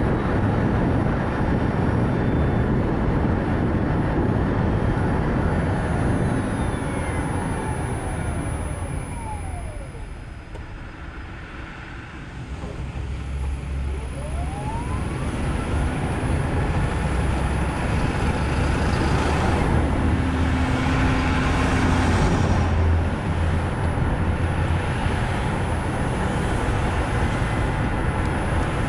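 Nissan Note e-POWER driving, with steady tyre and road noise. About ten seconds in, it slows almost to a stop, and the noise drops away under a falling whine from its electric drive. It then pulls away again with a rising whine, and the road noise builds back up, loudest near the end.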